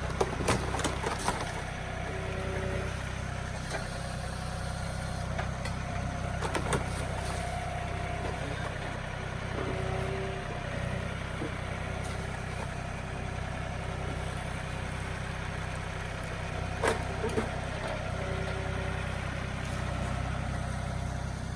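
Compact diesel tractor engine running steadily at low revs, with several sharp knocks or clatters near the start, one about a third of the way in, and a couple more toward the end.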